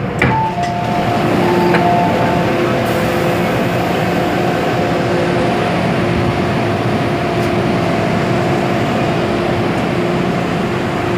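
MTR M-Train electric multiple unit running at speed, giving a steady rumble with several constant humming tones over it. There is a short knock about a quarter-second in.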